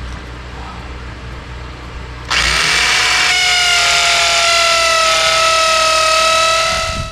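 Hammer drill starting up about two seconds in and boring into concrete for about five seconds, a pilot hole for a Tapcon concrete screw. A steady motor whine rides over a harsh hammering noise, and it stops near the end.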